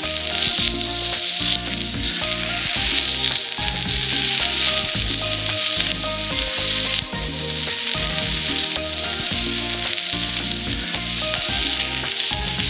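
Food sizzling and frying steadily in a hot pan, a dense continuous hiss, most likely potatoes in an iron frying pan over a campfire. Background music with steady low notes runs underneath.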